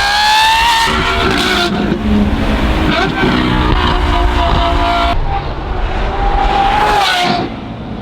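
Lamborghini Revuelto's V12 through a full F1-style race exhaust, running hard with a high engine note that climbs and steps in pitch as it pulls through the revs and gears, then falls away as the throttle lifts near the end.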